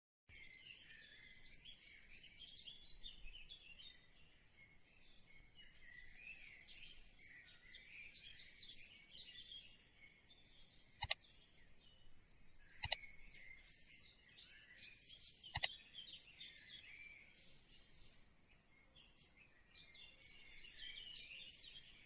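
Birds chirping continuously in a busy chatter of short high calls, broken by three sharp clicks in the middle of the stretch.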